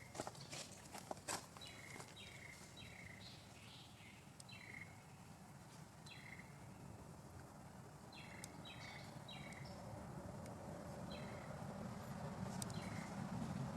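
A bird calling over and over in short, high, falling notes, several in quick succession, with pauses between the groups. There are a few sharp clicks in the first second or so, and a vehicle's low rumble grows louder near the end.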